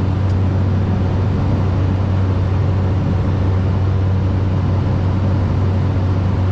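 Cessna Caravan 208B's PT6A turboprop engine and propeller droning steadily at takeoff power during the initial climb, heard from inside the cabin as a constant low hum under an even roar.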